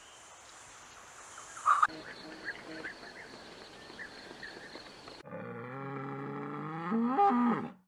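A brief sharp call about two seconds in, then hens clucking softly, then a Highland cow lowing in one long, deep moo that rises in pitch near the end and cuts off abruptly.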